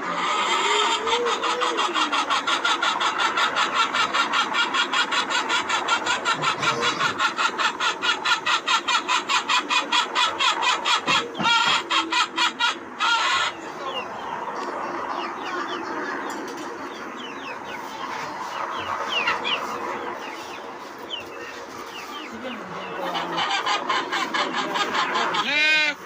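Helicopter main rotor chopping in a fast, even beat for about thirteen seconds. The beat slows slightly and then cuts off abruptly. Afterwards chickens cluck and chirp, and a rooster crows near the end.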